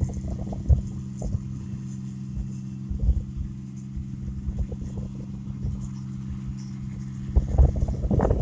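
Engine of an 8080 rice combine harvester running at a steady hum, with gusts of wind buffeting the microphone in irregular low thumps that grow stronger near the end.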